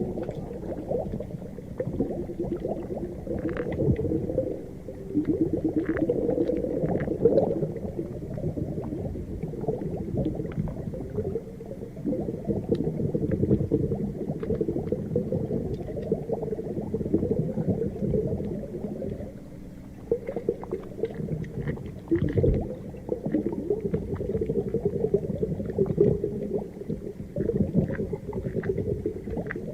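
Underwater ocean ambience: a low, muffled, churning rumble of bubbling, gurgling water, with scattered faint clicks.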